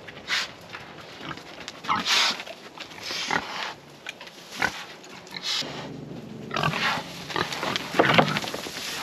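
Pigs grunting in short, irregular bursts, the loudest about eight seconds in.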